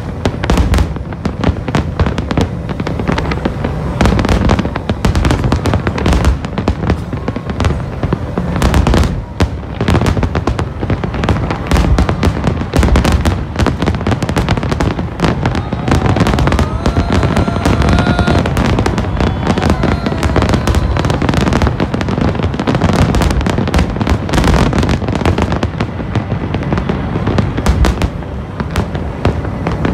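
Large aerial fireworks display: a continuous barrage of many shells bursting at once, with dense bangs and crackling.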